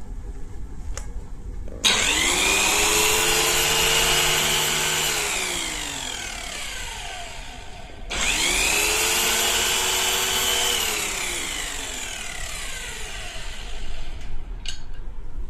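Yamazen SBC-280A electric grass trimmer run twice: each time the motor whines up to speed at once, runs steadily for about three seconds, then is let go and winds down with a falling whine.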